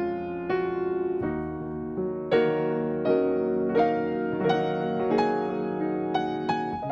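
Background piano music: a gentle melody of single struck notes over held chords.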